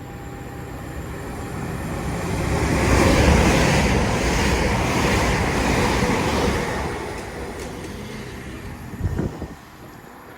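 Class 800 express train passing through the station at speed: a rush of rail and train noise that builds over a couple of seconds, stays loud for about four seconds, then fades away. A brief knock comes near the end.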